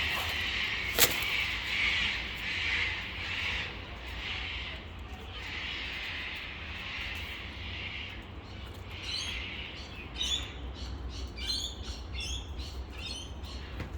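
Wild birds chirping and calling outdoors, with a sharp click about a second in; from about nine seconds in, a quick run of short, high chirps.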